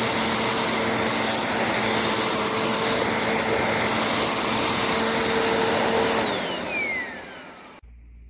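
Bissell CleanView Compact upright vacuum cleaner running steadily with a high motor whine. About six seconds in it is switched off and the motor spins down with a falling whine.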